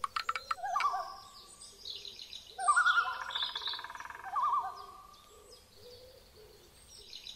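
Bird calls: wavering, warbling whistled calls on a steady pitch, with higher chirping over them, in two loud bouts. The second bout, a little after two and a half seconds in, is the louder and longer, and the calls fade quieter near the end.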